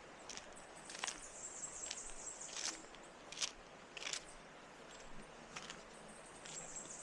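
Footsteps on a path, irregular, about one step every second. A high-pitched insect trill buzzes for a second or two about a second in and starts again near the end.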